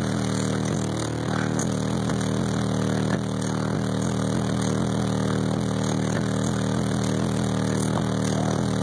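A steady, loud, droning low bass note from a bank of six 18-inch SMD subwoofers, heard from inside the vehicle cabin, with a buzzing, overdriven edge.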